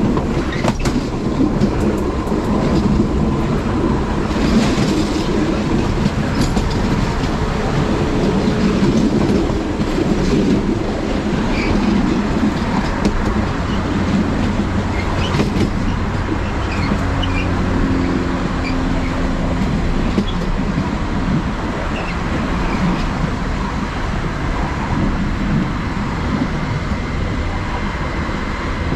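Passenger train running along the track, heard from the driver's cab: a steady rumble of the wheels with irregular clicks and clatter over the rail joints. A low steady hum comes in for a few seconds past the middle.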